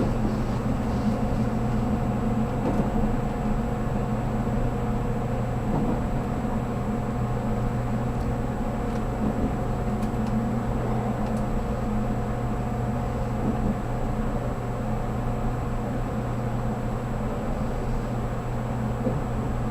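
Interior running noise of a 783 series electric train: a steady rumble of wheels on rail with a constant hum of tones underneath.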